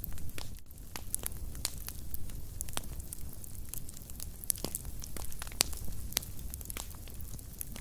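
Wood fire burning in a fireplace, crackling and popping irregularly over a low steady rumble of the flames.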